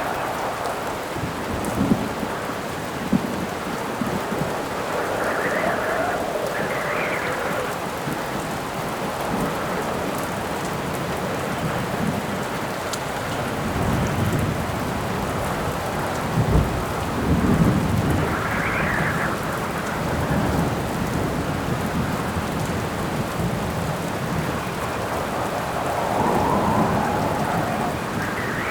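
A rainstorm: steady rain, with wind howling in gusts that swell and fall in pitch, and thunder rumbling several times, most heavily about halfway through.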